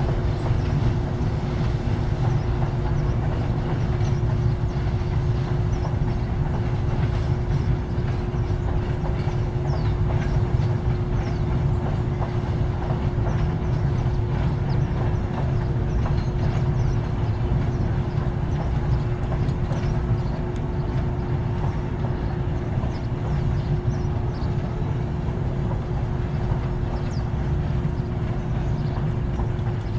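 Loaded freight train wagons rolling past, a steady rumble of steel wheels on the rails with a constant low hum and scattered faint clicks.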